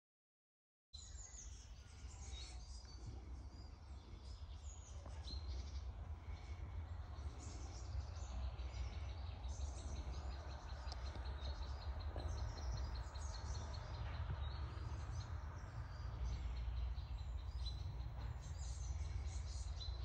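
Woodland birds chirping and calling over a steady low rumble. A rapid run of evenly spaced high ticks carries through the middle. The sound begins after a second of silence.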